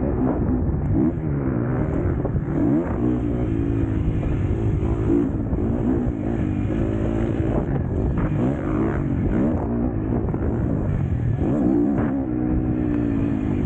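KTM 250 SX-F four-stroke motocross bike racing, its engine revving up and falling back again and again, pitch rising and dropping every second or two as it accelerates and shuts off.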